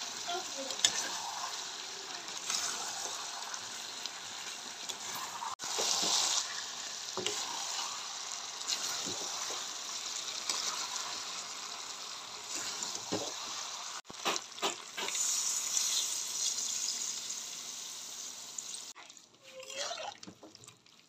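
Chicken pieces sizzling in masala gravy in a metal kadhai while a spatula stirs and scrapes through them. The sound drops out abruptly twice and grows quieter near the end.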